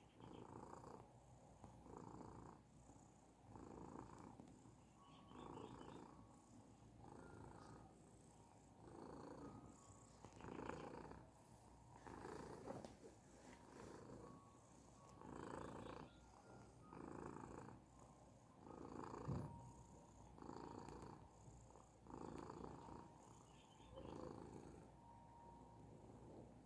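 Persian cat purring softly while being massaged, a steady rhythm of swells about every second and a half as it breathes in and out.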